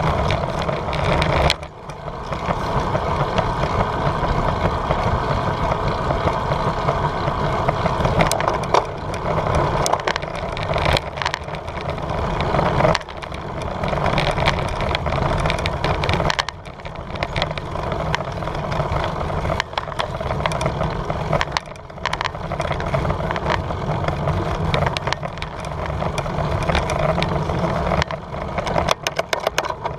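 Steady wind rush over a GoPro microphone with tyre and road noise from a moving bicycle, dipping briefly a few times, with short knocks and rattles near the end.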